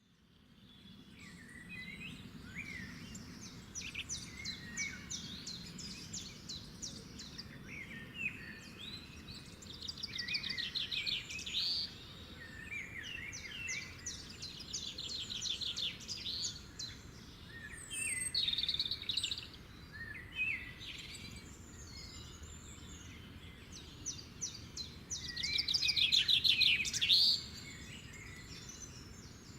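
Songbirds singing and calling, many overlapping chirps and whistles with several fast trilled phrases, over a low steady background hiss; the sound fades in at the start.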